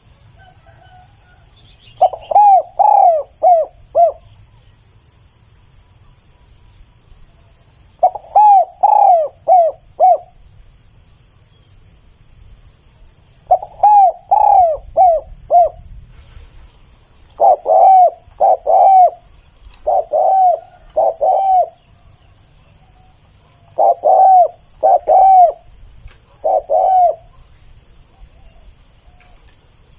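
Spotted dove cooing: five phrases of three to five loud, low coo notes, one every four to six seconds, over a steady high insect trill.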